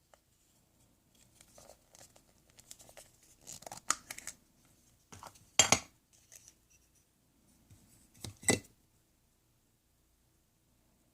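Irregular small handling noises, rustling and scraping, with two louder sharp noises, one a little past halfway and one near the end.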